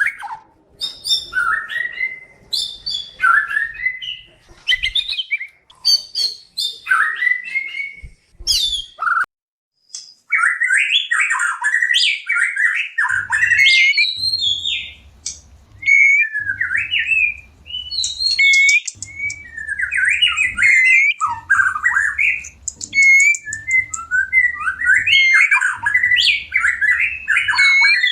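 White-rumped shama song: fast, varied phrases of whistles, chatters and harsh notes, sung in the bird's breeding-season mood. It breaks off briefly about a third of the way in, then runs on as dense, unbroken singing.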